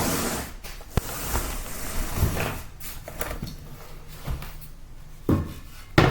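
A few sharp knocks with scraping and rustling in between, as tools and materials are handled.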